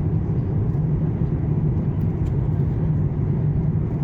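Steady low cabin noise inside an Airbus A350-900 airliner: an even rush of engine and airflow noise, heavy in the low end and unchanging throughout.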